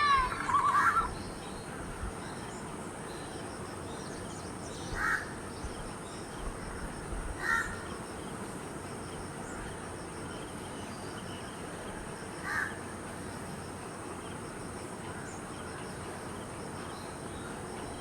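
Crows cawing: one louder call at the start, then a few short, scattered caws, over a steady background hiss.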